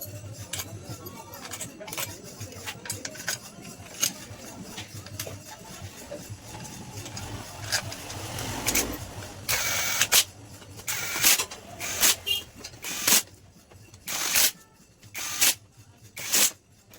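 Metal engine parts and hand tools clicking and clinking during motorcycle engine assembly. About halfway through come several short hissing bursts, each under a second, with gaps between them.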